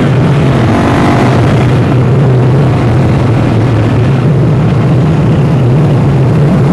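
KTM 525 XC-W dirt bike engine running steadily at an even speed, with a loud rush of noise over it.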